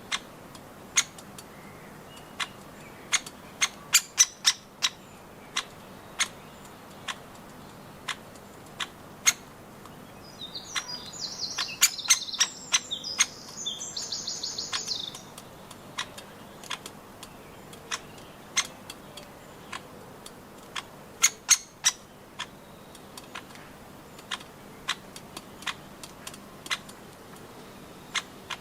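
Birds pecking at nuts: sharp, irregular taps, often in quick pairs or short runs. A small songbird sings one high phrase ending in a quick trill about 11 to 15 seconds in.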